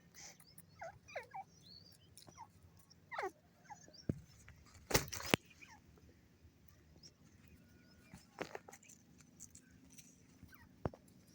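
Scattered short bird calls: quick chirps and downward-sliding notes. A few sharp clicks cut through them, the loudest two about five seconds in.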